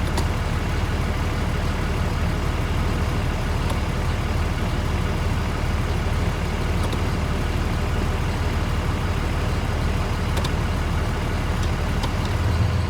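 24-valve Cummins diesel engine idling steadily in Drive without stalling, now that the locked-up torque converter has been replaced. A few faint ticks sound over the idle.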